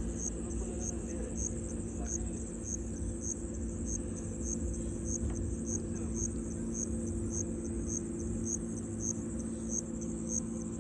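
Insects chirping: a high-pitched pulsing chirp repeating about twice a second over a steady high buzz, with a low steady hum underneath.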